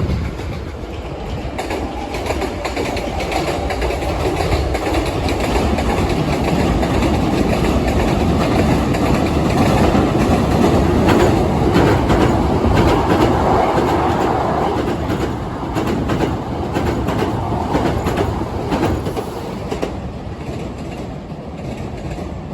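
Hankyu electric train crossing a railway bridge, wheels clacking over the rail joints over a continuous heavy rumble that grows louder toward the middle and fades near the end.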